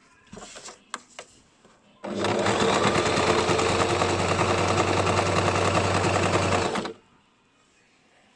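Basic electric sewing machine stitching at a steady speed for about five seconds, with a rapid even needle rhythm and motor hum, starting about two seconds in and stopping abruptly. A few light clicks and handling sounds come before it.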